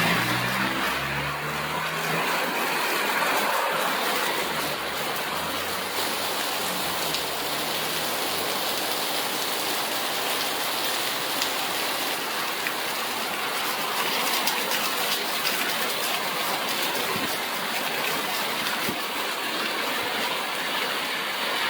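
Heavy rain falling steadily, an even rushing hiss. A low hum fades out within the first couple of seconds.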